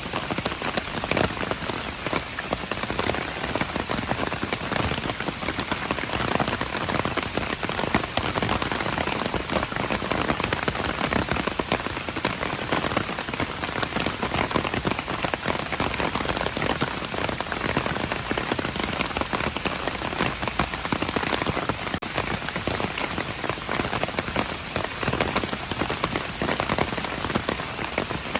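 Steady rain falling on hard surfaces: a dense, even patter of many small drop impacts.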